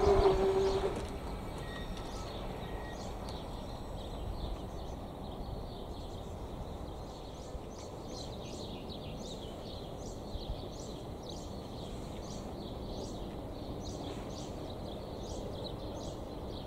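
The level crossing's AŽD ZV-02 electronic bell sounds its steady tone and cuts off about a second in. Then a quiet outdoor background remains, with a small bird chirping over and over in short high calls from about five seconds in.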